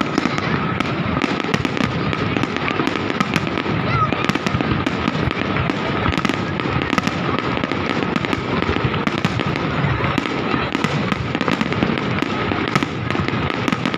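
A fireworks display going off in a dense, continuous barrage of rapid bangs and crackles, with no pause. A steady high tone runs underneath.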